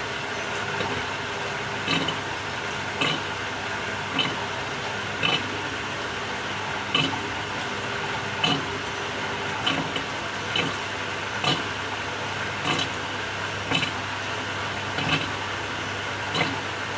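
Samsung 6.5 kg top-loading washing machine running mid-cycle: a steady churning whir with a short knock or clunk about once a second.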